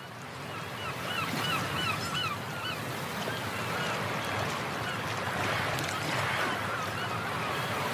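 A bird calling in a quick run of short, repeated notes, over a steady hiss of background noise that fades in at the start.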